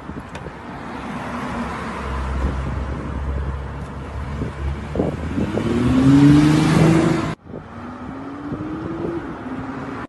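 Motor vehicle engine running and accelerating, its pitch rising. It breaks off suddenly about seven seconds in, and another engine starts, also rising in pitch.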